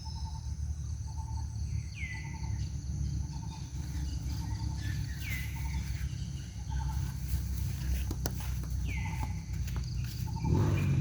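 Outdoor natural ambience: insects buzzing steadily, a short chirp repeating about once a second, and three falling whistled calls a few seconds apart. Rustling and clicks come in near the end.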